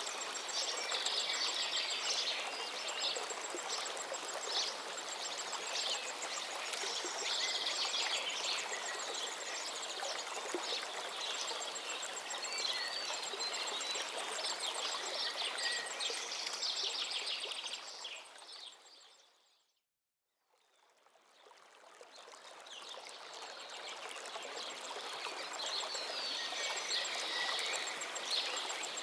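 Many small birds chirping and trilling over a steady outdoor background hiss. About two-thirds of the way through, everything fades out to silence and then fades back in over a few seconds.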